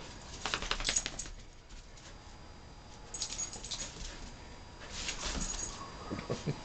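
A puppy whimpering and yipping in a few short bursts, with quick low pulses near the end.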